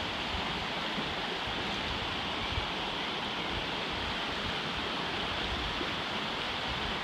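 River rapids rushing steadily, an even, unbroken noise of fast-moving water.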